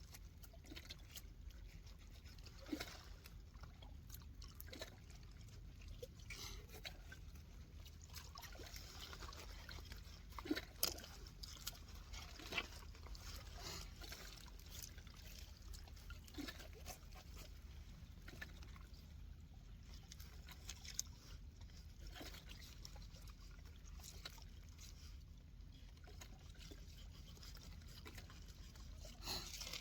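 Faint trickling and lapping water with scattered small clicks and knocks, a few louder knocks around the middle.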